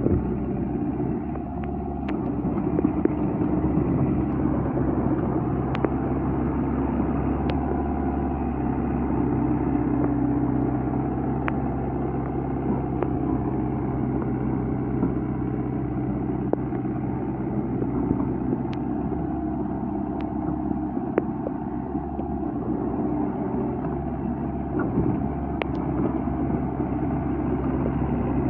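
A motor vehicle engine running steadily at an even pitch, with a few faint sharp clicks.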